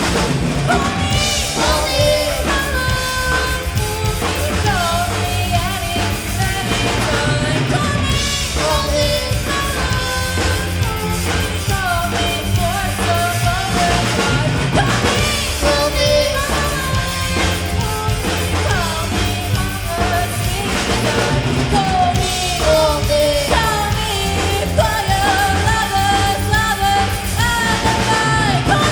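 Live rock band playing a song with a lead singer, loud and steady throughout.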